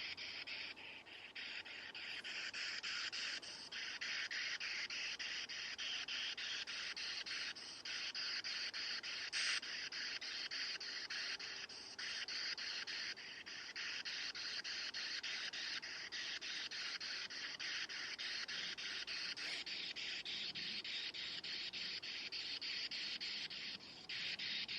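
Steady hiss of radio static from a handheld ghost-hunting radio device, with short dips every few seconds.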